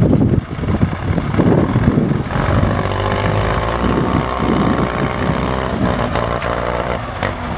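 Tractor engine running. For the first two seconds or so the sound is rough and uneven, then it settles into a steady engine note.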